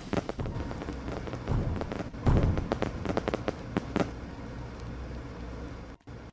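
Fireworks crackling and popping in rapid bursts, loudest a little after two seconds in, cutting off abruptly near the end.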